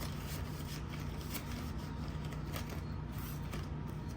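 Paper banknotes rustling and rubbing as cash is handled and tucked into a budget binder's envelope, in light scattered shuffles.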